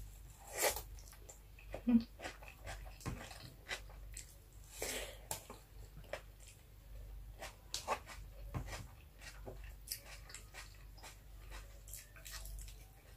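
Close-up eating sounds: mouth chewing and lip smacks as rice and fried milkfish are eaten by hand, with scattered small clicks and one louder knock about two seconds in.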